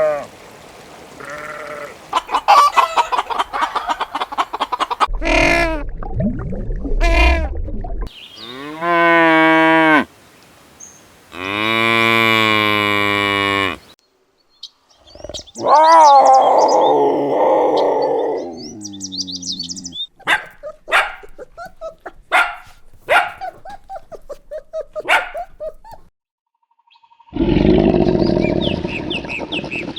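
Farm animals calling in a string of separately recorded clips, mostly sheep and goats bleating, some calls long and drawn out. In the second half there is a run of short, sharp calls.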